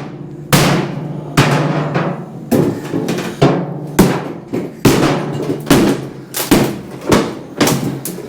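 Wooden shipping crate being knocked apart with heavy blows, about ten strikes at uneven intervals, each ringing briefly.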